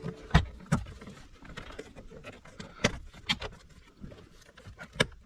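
Plastic interior trim panel being pulled off, its push-in clips popping loose with a handful of sharp clicks and knocks.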